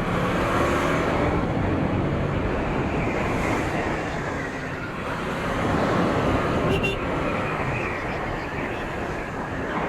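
Motorcycle riding on the road: steady engine and wind-rush noise on the rider's microphone, easing slightly around the middle and rising again.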